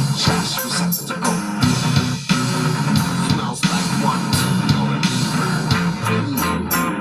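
Live rock band playing an instrumental passage: electric guitars and bass guitar over a drum kit.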